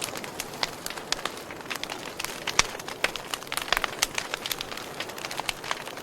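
Wood fire crackling, with frequent sharp pops over a steady hiss; the loudest pop comes about two and a half seconds in.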